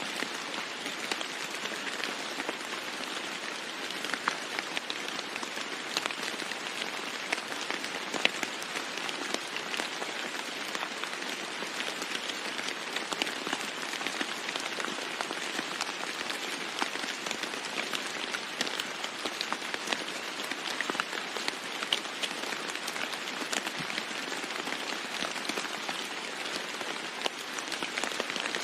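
Steady heavy rain falling on a roof: a constant hiss with many individual drops ticking and pattering through it.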